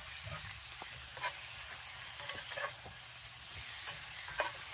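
Chicken breast frying in a pan on a butane camp stove at medium heat, sizzling steadily, with a few light clicks and taps through it.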